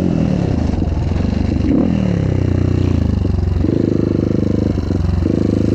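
Motocross bike engine running under way, its revs dropping and climbing several times as the rider rolls off and shifts, then holding steadier in the second half.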